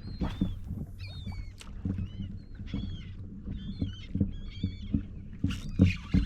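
A flock of seabirds working over the water, giving short, high, wavering cries again and again, a sign of fish feeding on bait below. Low knocks against the kayak hull sound underneath.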